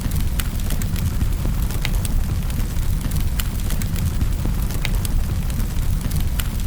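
Fire burning in a fireplace: a steady low roar with frequent sharp crackles and pops, several a second.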